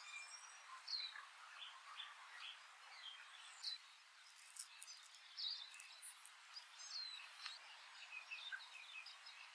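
Small birds chirping faintly, a scattering of short high notes and slurred whistles over a soft outdoor hiss. From about four seconds in, these are silvereyes (tauhou) calling.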